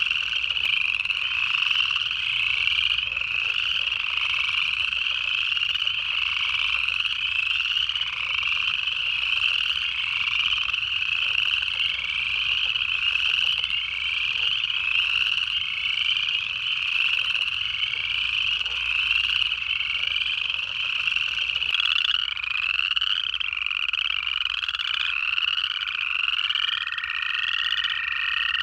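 Dense chorus of upland chorus frogs: many overlapping ascending trills repeating throughout. Near the end a long, steady American toad trill starts up and keeps going.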